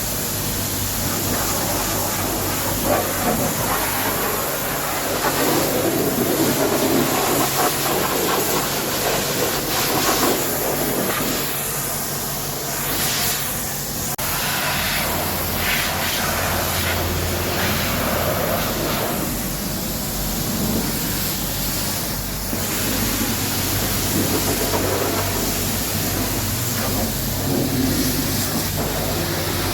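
High-pressure washer jet spraying water onto a truck: a steady hiss and splatter with a low machine hum underneath.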